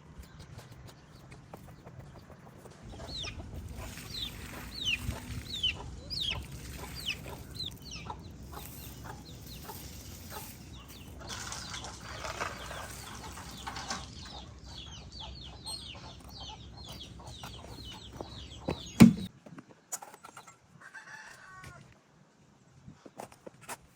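Chickens clucking, with many short, high, falling peeps. A single sharp knock comes near the end, after which the sound drops much lower.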